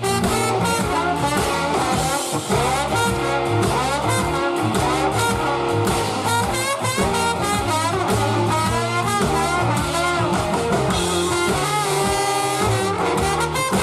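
Live band playing an instrumental funk groove with electric guitar, bass, drums and horns.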